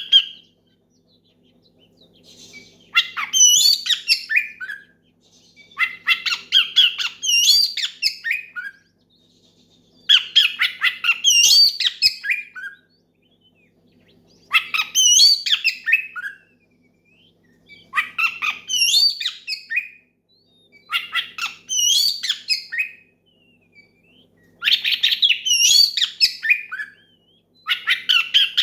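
Oriental magpie-robin singing loudly in repeated phrases of rapid whistles and harsh notes, about eight phrases with short pauses between them. It is the loud territorial song of a bird in full voice, calling out a rival.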